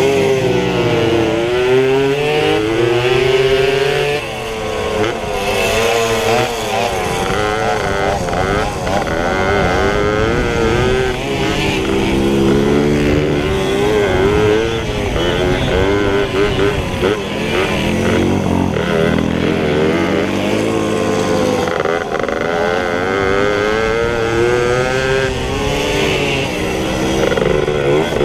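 Several pit bike engines revving hard, their pitch rising and falling over and over as they are throttled up and shifted.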